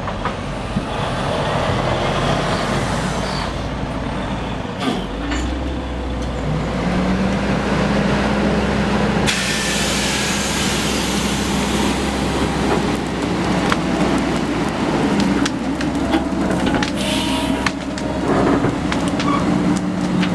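Heavy diesel engines of a Caterpillar machine and a semi truck working under load to move a chip van trailer along the trail. A deeper engine rumble builds about five seconds in, and a loud hiss starts suddenly about nine seconds in, over scattered knocks.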